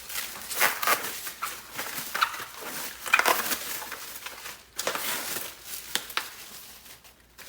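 Packaging crinkling and rustling in irregular bursts as parts are unwrapped by hand, quieter near the end.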